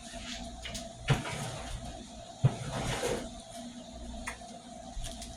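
Kitchen handling sounds: two sharp knocks, about a second in and again about two and a half seconds in, with lighter clatter and clicks between, as dishes and cupboards are handled at the sink, over a faint steady hum.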